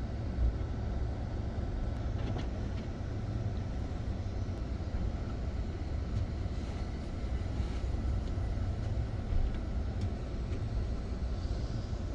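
Passenger train running along the track: a steady low rumble with a few faint clicks.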